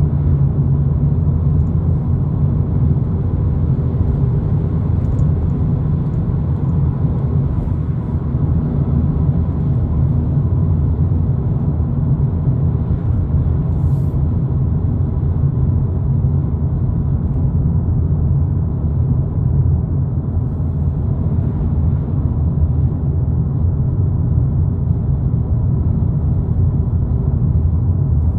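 Steady low rumble of a 2022 Volkswagen Polo GTI, with its 2.0-litre turbocharged four-cylinder engine, cruising along the road: engine and tyre noise heard from inside the cabin.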